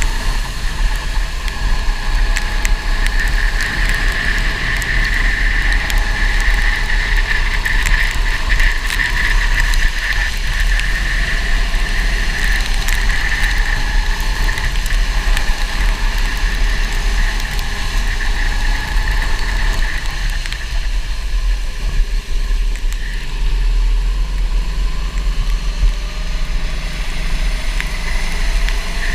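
Go-kart engine running on track, a steady high whine over a deep rumble. The whine fades for several seconds about two-thirds through and comes back near the end.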